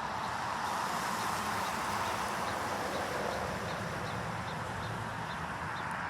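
Steady rushing noise of road traffic, with a faint high tick repeating about twice a second.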